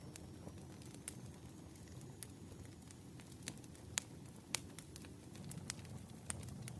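Wood fire crackling, irregular sharp pops and snaps of burning firewood over a low steady rumble of the flames, with the loudest pops about halfway through.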